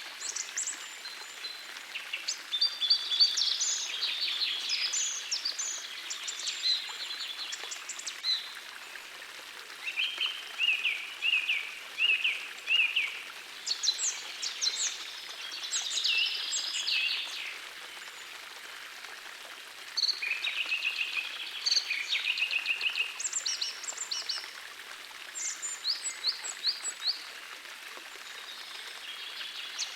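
Several songbirds singing in repeated bursts of quick chirping phrases over the steady rush of a small forest stream. Around the middle, one bird gives a run of short, repeated, lower notes.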